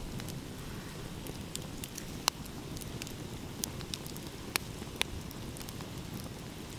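Wood fire crackling, with scattered sharp pops, the loudest about two seconds in, over a steady low wash of ocean waves.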